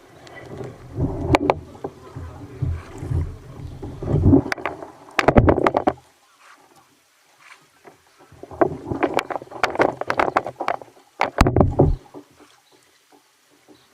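Kayak on the water: water splashing and sloshing against the hull, with sharp knocks, in two spells of a few seconds each.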